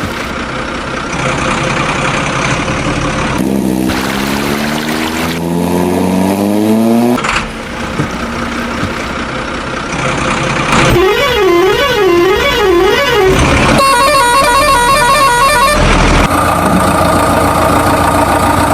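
Vehicle sounds: an engine running, a rising rev about four seconds in, then a warbling up-and-down horn and a steady horn blast near the end.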